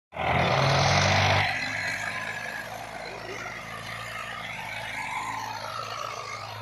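Diesel tractor engine running steadily, with a loud rush of noise over it for the first second and a half.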